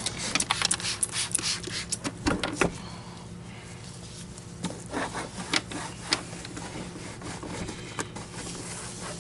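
A cloth rubbing polish onto the body of an Electrolux canister vacuum: a quick run of wiping strokes for the first two or three seconds, then fainter, scattered rubs and small clicks.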